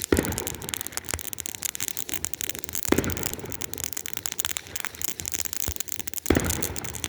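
Consumer fireworks going off: a steady crackling with three louder bangs, about three seconds apart.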